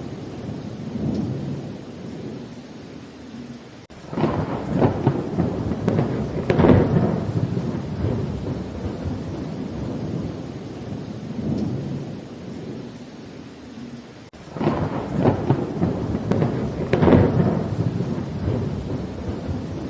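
Steady rain falling during a thunderstorm, with thunder rolling twice, about four seconds in and again about fourteen seconds in, each roll lasting a few seconds.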